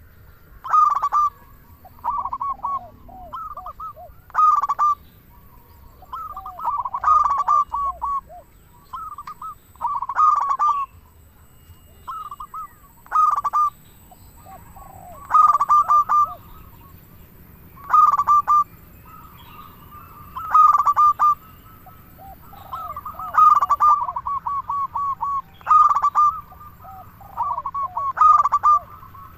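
Perkutut (zebra doves) cooing: phrases of short, rapid cooing notes repeat every one to three seconds, sometimes overlapping.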